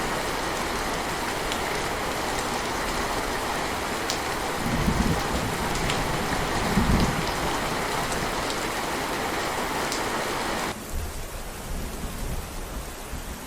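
Heavy rain pouring steadily, with two low rumbles of thunder about five and seven seconds in. About eleven seconds in the rain hiss cuts off suddenly, leaving fainter, uneven low rumbling.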